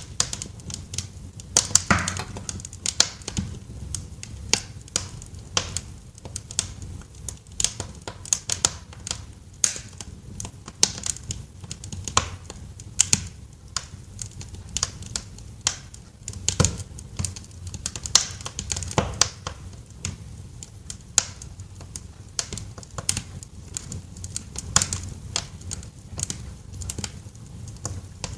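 Wood fire crackling in a fireplace: irregular sharp pops and snaps, a few louder than the rest, over a low steady rush of the flames.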